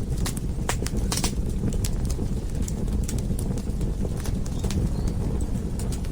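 Wood fire burning in a fireplace: a low steady rumble of flame with irregular sharp crackles and pops from the burning logs, several in quick succession about a second in.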